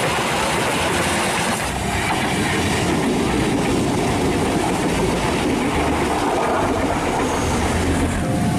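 Railway passenger coaches passing close by: a steady, loud rumble and rattle of steel wheels running on the rails.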